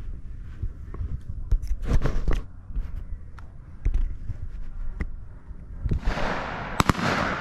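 Shotgun fire at a pheasant shoot: scattered knocks and rustling, then a rushing noise swells about six seconds in and two sharp shotgun shots crack in quick succession near the end.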